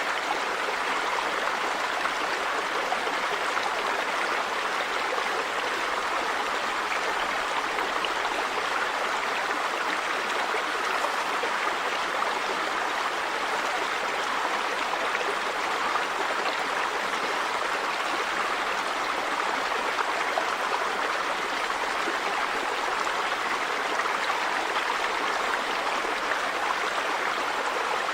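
River water running steadily over rocks: an even rushing and burbling that doesn't change.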